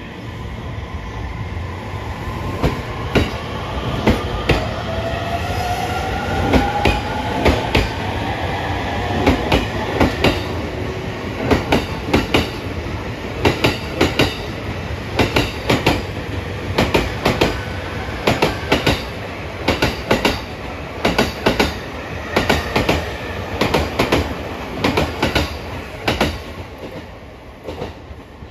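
JR East E231 series 1000-numbered refurbished electric train pulling away and accelerating: the rising whine of its traction motors over a steady rumble, then rail-joint clicks in quick groups as each bogie crosses a joint, the groups coming faster as the train picks up speed and fading near the end.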